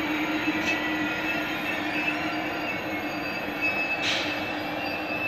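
SNCF TGV high-speed trainset moving slowly through a station, with a steady hum and running noise and a thin high squealing tone over it. Two brief hissing bursts come, one under a second in and one about four seconds in.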